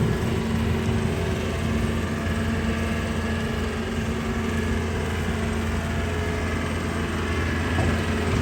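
Vehicle engine idling with a steady low hum, over street traffic noise.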